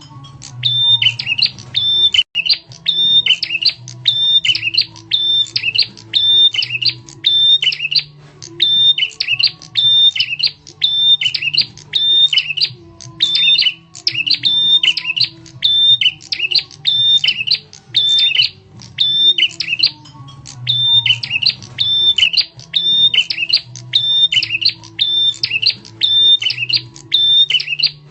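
Prenjak tamu, a small songbird, giving its loud, sharp lure call: rapid high notes repeated in an even, almost unbroken series with short pauses every few seconds. A faint low hum runs underneath.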